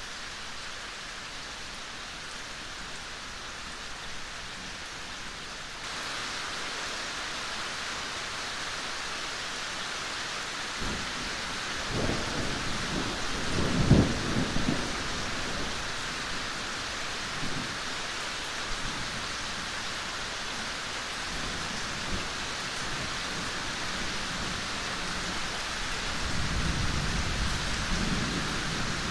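Steady rain falling, a hiss that gets a little louder about six seconds in. Thunder rumbles low in the middle, loudest at about fourteen seconds, and again near the end.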